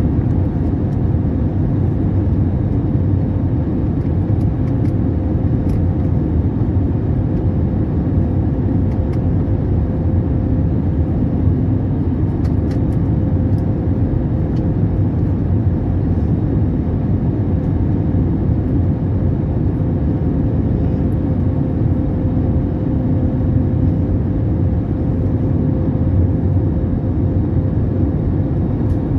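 Steady cabin noise of an Airbus airliner: a loud, even low rumble of engines and airflow with a faint held hum over it.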